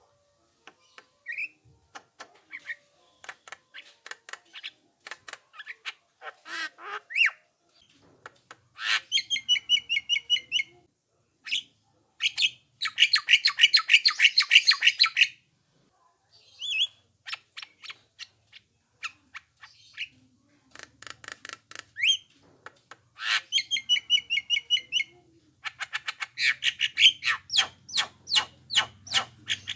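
Javan myna (jalak kebo) calling: a varied string of short, harsh squawks and sharp whistled notes, broken by fast rattling chatter runs about 9, 13, 23 and 27 seconds in.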